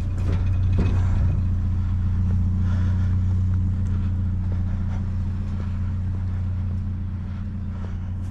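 A motor vehicle's engine running steadily with a low, even drone that fades slowly toward the end.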